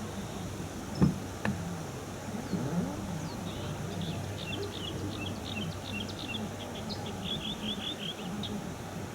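Small birds chirping in quick twittering runs, with a single sharp knock about a second in and a steady low hum underneath.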